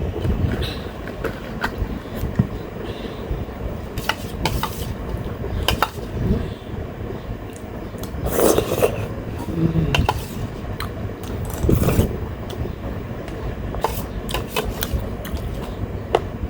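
Close-miked eating sounds: chewing, with scattered clicks of cutlery against a plate. A low, steady fan hum runs underneath.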